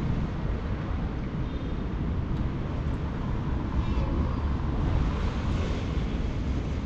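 Steady low rumble of city ambience with vehicle noise, without clear distinct events.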